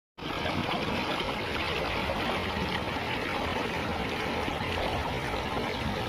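Water running steadily along a small irrigation ditch, a constant rushing with no breaks.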